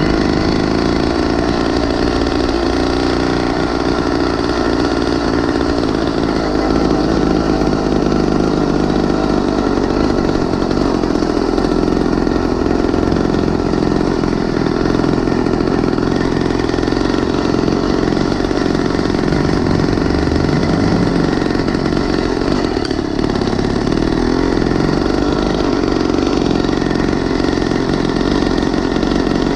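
Small engine of a motorized 20-inch mini bike running steadily while it is ridden, with no stops or breaks.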